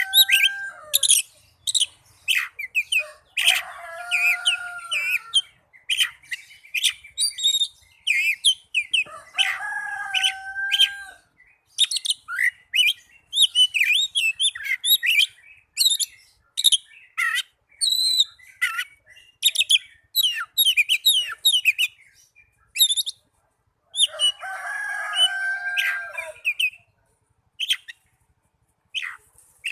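Oriental magpie-robin (kacer) singing in an excited, aggressive fighting song: rapid, varied high chirps, whistles and trills packed close together. Four times a longer, lower drawn-out call breaks in.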